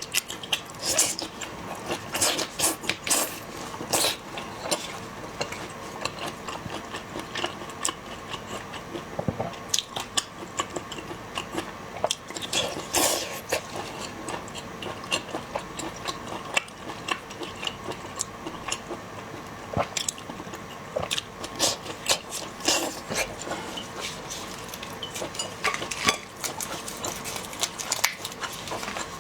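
Close-miked eating of seafood, with irregular crunching and chewing and many sharp clicks and crackles.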